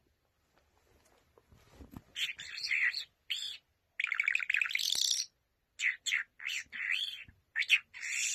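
Small birds chirping: after a quiet start, a run of short, high calls, with a longer rapid trill about halfway through, then more separate chirps.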